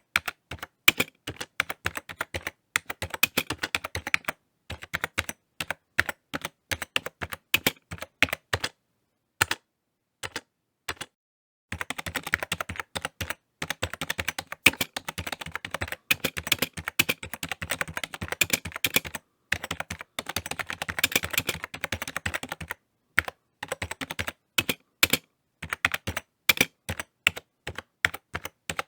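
Typing on a computer keyboard: fast runs of key clicks broken by short pauses, with a gap of about two seconds around a third of the way in.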